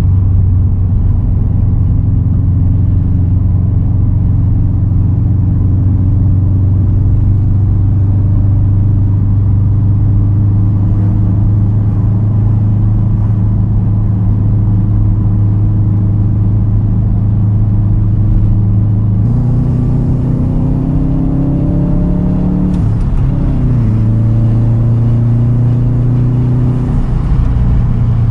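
2010 Subaru WRX STI's turbocharged 2.5-litre flat-four running through a single titanium straight-pipe exhaust while cruising, its note climbing slowly. About two-thirds through the pitch steps up, then dips briefly and comes back a few seconds later.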